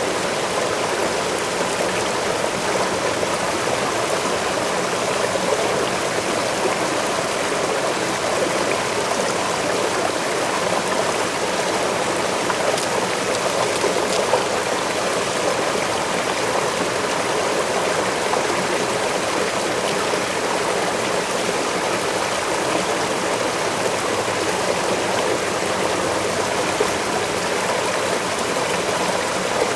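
Waterfall in a forest: a steady, unbroken rush of falling and flowing water.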